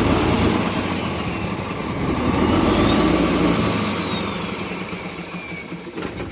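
Heavy truck engine running with a loud high-pitched whine in two long stretches, broken briefly about two seconds in, over a low rumble. A faint falling tone follows, and it all fades toward the end.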